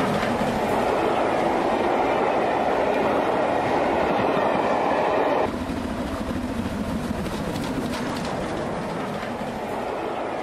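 Steam-hauled train's passenger coaches rushing past close by, wheels clattering over the rail joints. About halfway through the sound drops abruptly to a quieter, more distant train running along the line.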